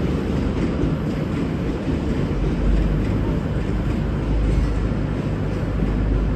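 V/Line Sprinter diesel railcars running by with a steady low rumble, which strengthens about two and a half seconds in.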